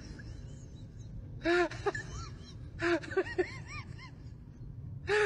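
Short, squeaky vocal calls in quick clusters of two to four, each rising then falling in pitch, over a low steady background.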